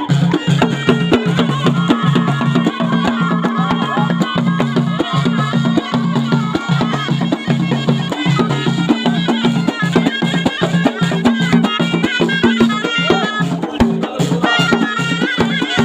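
Ghaita, the North African double-reed shawm, playing a continuous ornamented melody over a steady drum beat.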